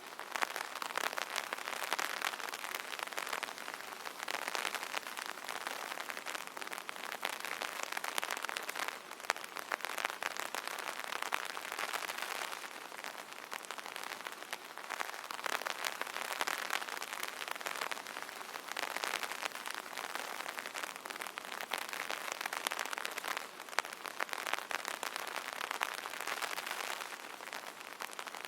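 Rain falling on an umbrella: a dense, steady patter of many drop hits that swells and eases a little every few seconds.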